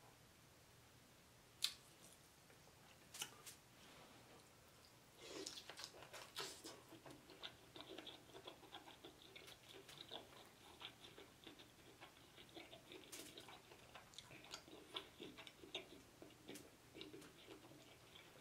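Close-up mouth sounds of someone chewing lobster tail meat: soft, wet chewing with many small clicks, starting about five seconds in. Before that there are a couple of sharp clicks.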